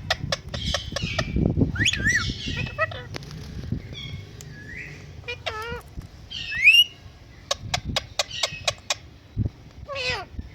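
A pet parrot giving several short whistled squawks, some rising and some wavering in pitch, with bursts of sharp clicks between them.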